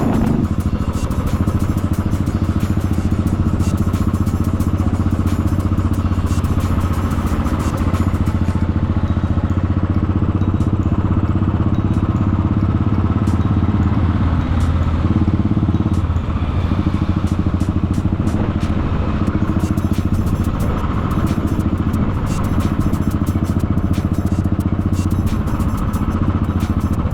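Motorcycle engine running steadily at cruising speed, heard from the bike while riding, a steady low hum with road noise over it.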